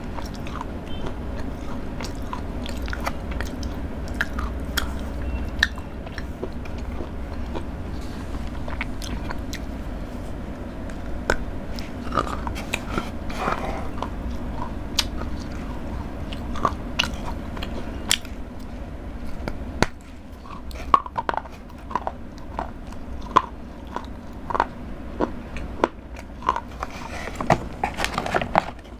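Chocolate bar bitten and chewed close to a clip-on microphone: many sharp crunches and snaps among wet chewing, coming thicker in the second half, over a steady low hum.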